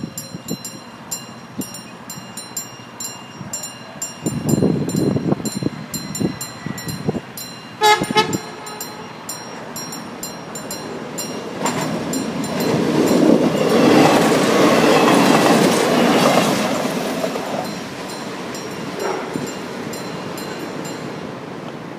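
Diesel locomotive-hauled train approaching along the track, giving a short horn blast about eight seconds in. Then its engine and wheels grow loud as it passes and fade away.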